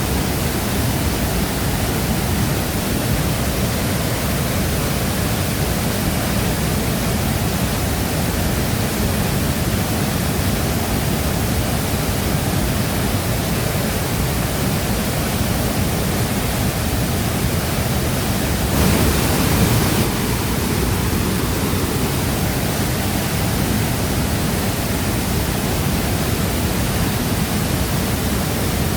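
Shifen Waterfall's water falling into its plunge pool: a steady, dense rush of white noise, strongest in the low end. About two-thirds of the way through, it surges briefly louder for about a second.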